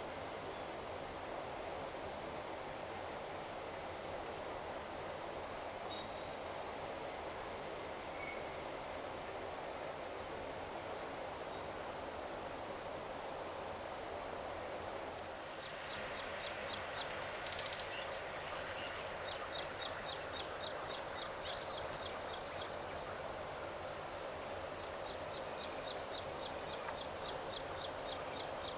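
Evening paddy-field insect chorus: crickets chirp in a steady high pulse about twice a second over a continuous high whine and a low even hum. From about halfway, trains of rapid high ticking trills join in, with one brief loud high call a little after that.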